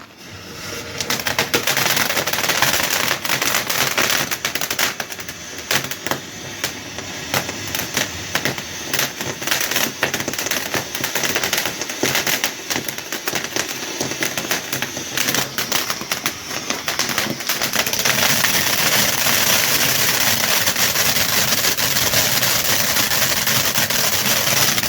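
Glittering Gemstone firework fountain burning, giving off a dense, rapid crackling of many small pops over a hiss. It starts about a second in and becomes steadier and denser in the last quarter.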